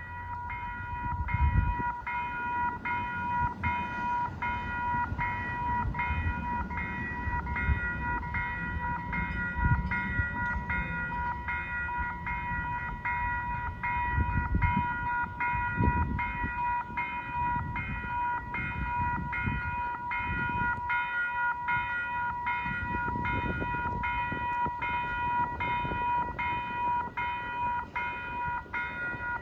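Railroad grade-crossing warning bell ringing steadily in an even rhythm, a little more than once a second, over a low, uneven rumble.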